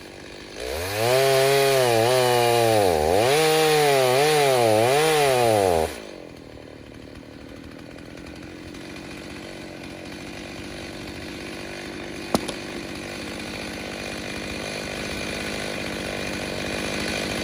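A freshly rebuilt Stihl 029 two-stroke chainsaw with a 45 mm cylinder revs up and runs loud under load for about five seconds, its pitch dipping and recovering four times. It then drops suddenly back to a quiet idle, with a single sharp click later on.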